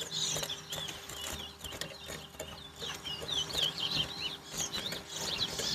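Caged towa-towa seed finches singing contest song: rapid, jumbled high whistled chirps and warbles running on without pause.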